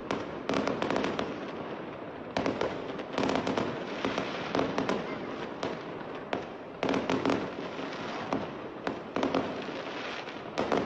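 Aerial fireworks going off, with repeated bangs and dense crackling coming in clusters every second or two.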